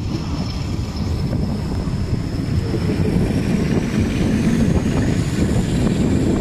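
KTM sleeper train running along the track, heard from beside the carriages: a steady low rumble of the wheels on the rails, with a faint high whine that rises slightly in pitch after the middle.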